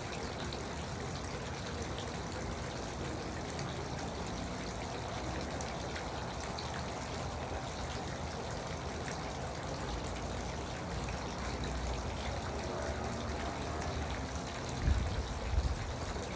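Garden water fountain, water trickling and splashing steadily, with a few low thumps near the end.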